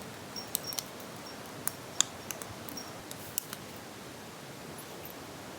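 Campfire crackling: irregular sharp pops and snaps, several close together in the first three and a half seconds, then only an odd faint one.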